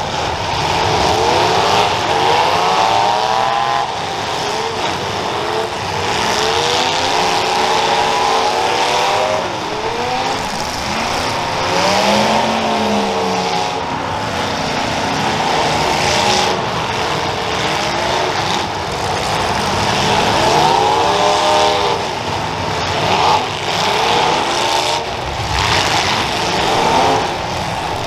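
Several demolition derby cars' engines revving hard in repeated bursts, pitch sweeping up and down and overlapping, as the cars push and ram in a pileup. A few sharp knocks cut through in the second half.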